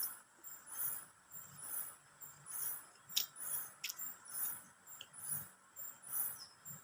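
Close-up chewing in a steady rhythm, with a few sharp clicks, over insects chirping in the background.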